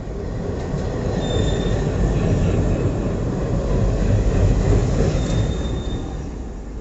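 Train wheels running on rails: a loud rumble that swells and then fades over a few seconds, with two brief high wheel squeals, about one second in and again about five seconds in.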